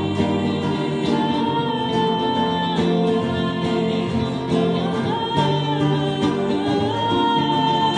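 A band playing a song live: long held sung notes over guitar.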